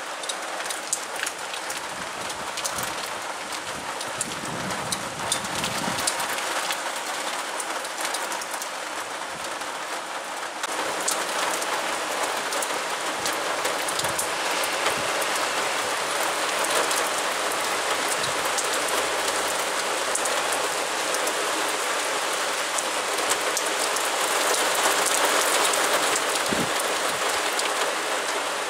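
Heavy downpour: a dense, steady hiss of rain on streets and roofs, speckled with the ticks of single drops, growing louder about ten seconds in.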